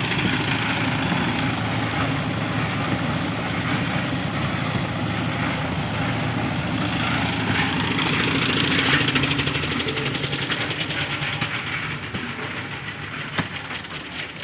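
An engine running steadily, growing quieter over the last couple of seconds, with a few sharp clicks near the end.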